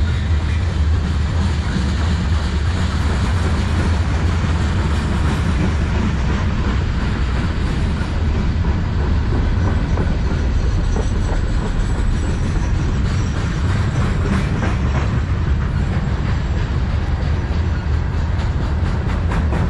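Freight train's covered hopper cars rolling past: a steady, heavy rumble of steel wheels on rail, with a faint clicking in the later seconds.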